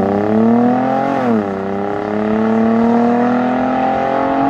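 Infiniti G35's 3.5-litre V6 accelerating through an aftermarket Invidia cat-back exhaust, its pitch climbing, dropping once about a second in at an upshift, then climbing steadily again.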